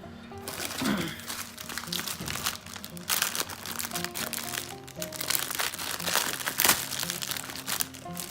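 Packaging being crinkled and rustled by hand in a dense, irregular run of crackles, with background music playing underneath.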